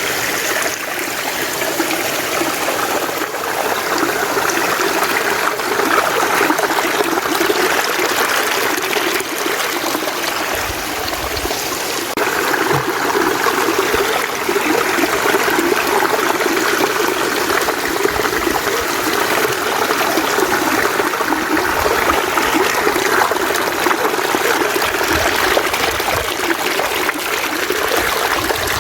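Mountain stream running steadily: a constant rush of flowing water.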